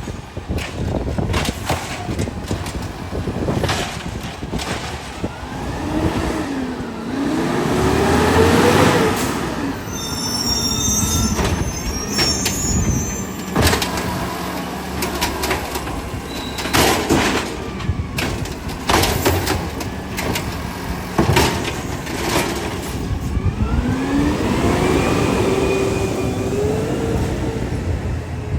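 Garbage truck running, its engine revving up twice, with repeated clanks and knocks and a brief high squeal about a third of the way in.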